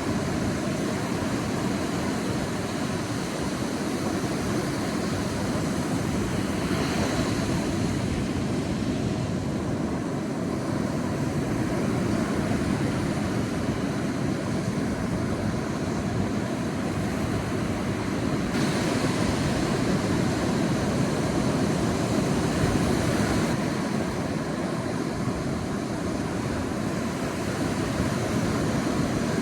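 Steady rush of sea surf on a beach, with swells of brighter hiss as waves wash in: a short one about a quarter of the way through and a longer one past the middle.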